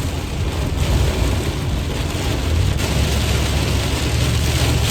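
Heavy rain pelting a moving vehicle, over a steady low rumble of engine and road noise.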